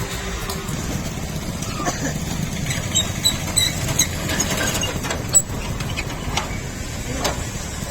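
Vehicle engine idling steadily with a low rumble, with scattered short clicks and a few high chirps over it.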